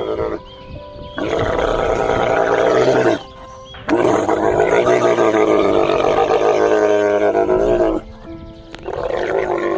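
A big cat roaring in long, loud calls, one about a second in, a longer one from about four seconds in, and another starting near the end, with short gaps between them.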